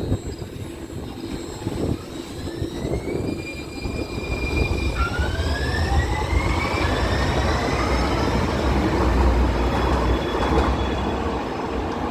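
One-car Muni Metro light-rail train pulling away in an underground station: its traction motors whine in a series of rising tones from about two seconds in, over a growing low rumble of the car on the rails.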